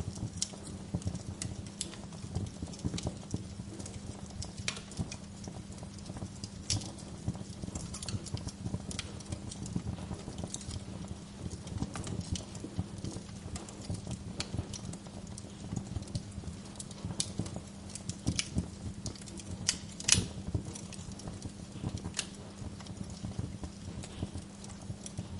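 Wood fire crackling in a fireplace: frequent irregular snaps and pops over a low steady rumble of the flames, with one louder pop about 20 seconds in.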